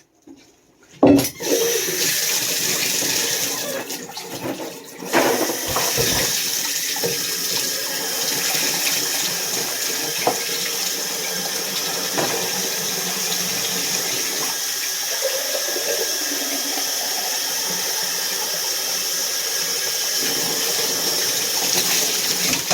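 Tap water running steadily, starting abruptly about a second in, dropping briefly around four seconds in, then running on.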